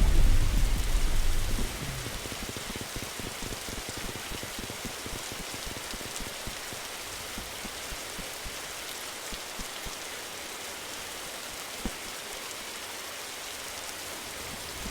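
Steady rain hiss with many small drop ticks. A louder, deeper sound fades out within the first two seconds, leaving the rain alone.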